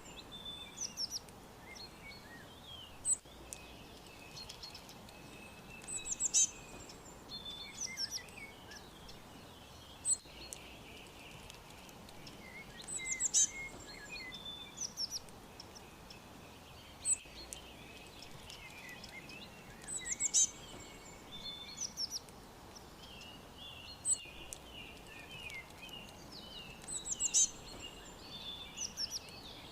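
Several songbirds singing together. One repeats a short, high, quick phrase every few seconds, and others chirp more softly and lower in between, over a faint steady hiss.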